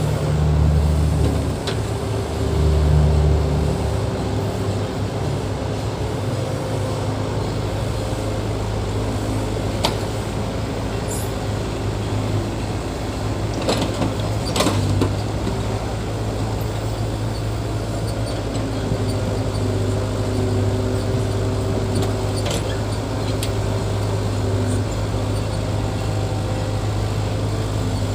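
Diesel engine of heavy earthmoving equipment running steadily, with two deeper surges in the first few seconds and a few sharp clanks about halfway through.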